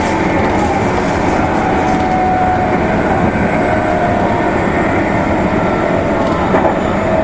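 Meitetsu limited express electric train running on the Nagoya Main Line, heard from inside the car: a steady rolling rumble with a few faint, slightly drifting tones.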